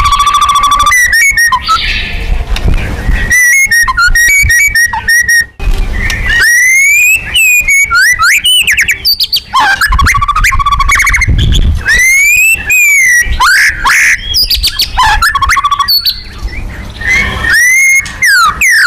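White-rumped shama (murai batu) singing a loud, varied song: a held whistle for about the first second, then rapid phrases of whistles, trills and rising and falling sweeps, packed with mimicked calls.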